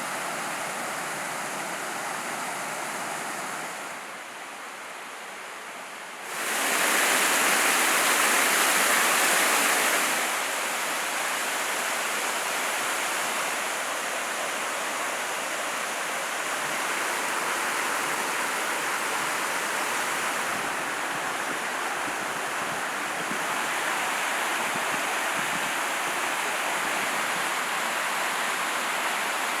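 Mountain valley stream running high after rain: a steady rush of water. It drops quieter about four seconds in, grows much louder for a few seconds from about six seconds, then settles back to a steady rush.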